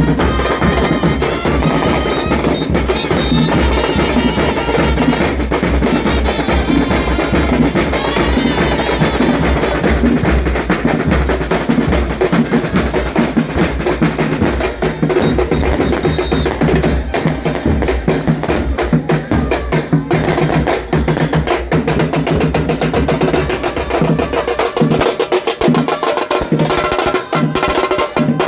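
A football supporters' drum band playing: bass drums and snare drums beating continuously in a dense, driving rhythm.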